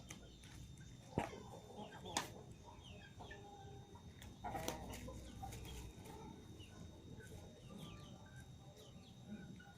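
A flock of Indonesian village chickens (ayam kampung) clucking with short scattered calls, with two sharp clicks about one and two seconds in.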